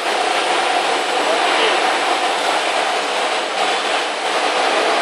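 Electric motor running while fully submerged in water, a steady, even machine noise with no change in speed.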